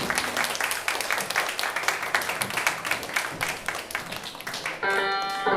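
Applause: many hands clapping in a dense, irregular patter. Near the end, instrumental music starts.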